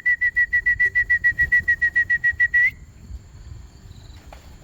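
A trilling whistle held at one high pitch, pulsing about ten times a second, that cuts off suddenly a little under three seconds in: a pigeon fancier's call to bring racing pigeons down into the loft.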